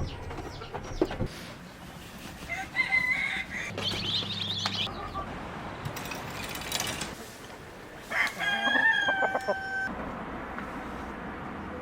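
Chickens: hens clucking and calling, then a rooster crows once about eight seconds in, a long call held steady before it cuts off.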